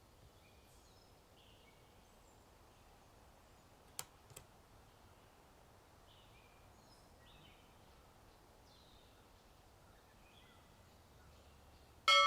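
Faint birds chirping over quiet outdoor ambience, with two sharp clicks about four seconds in. Right at the end a loud bell-like chime strikes and rings on, the pomodoro timer's alarm marking the end of a study session.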